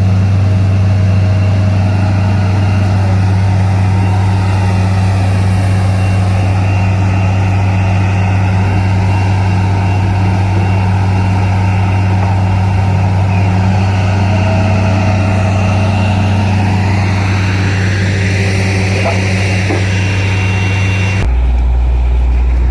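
Borewell drilling rig's diesel engine and machinery running loud and steady, a deep drone with a hissing, clattering noise above it. About a second and a half before the end the hiss cuts off suddenly and the drone drops to a lower pitch.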